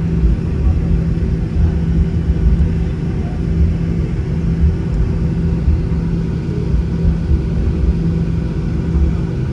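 Cabin noise inside a Boeing 737-800 on the ground before takeoff: its CFM56 engines at idle give a steady hum over a low, uneven rumble.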